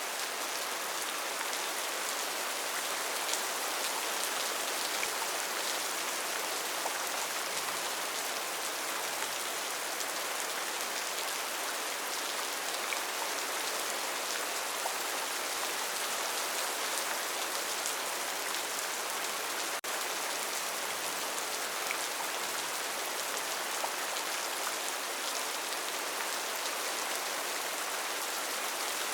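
Steady rainforest rain, an even hiss of rainfall with scattered sharper drop ticks, briefly dipping about twenty seconds in.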